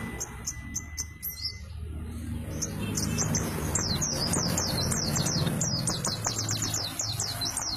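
Pleci (white-eye) singing: a few high chirps at first, then from about three seconds in a fast, rolling run of high, downward-slurred notes, about five a second.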